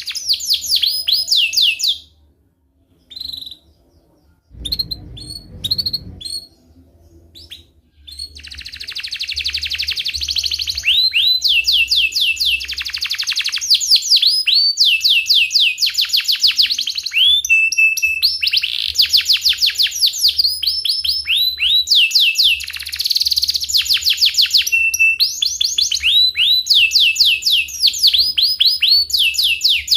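Domestic canary singing long rolling trills of rapid, repeated high sweeping notes. The song breaks off about two seconds in, gives a few scattered notes, then resumes about eight seconds in and runs on almost without pause.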